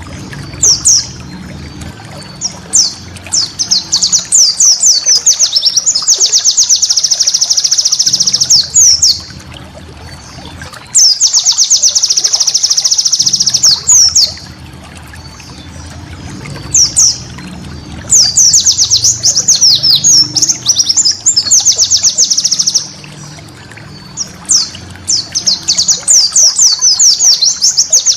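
Pleci (white-eye) singing: strings of quick high chirps that break several times into long, very rapid trills lasting two to three seconds each.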